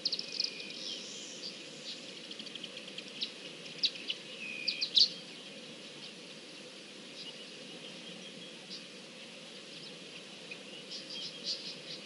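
Small birds chirping: short, high notes in quick clusters, loudest about five seconds in and again near the end, over a faint steady background of bush ambience.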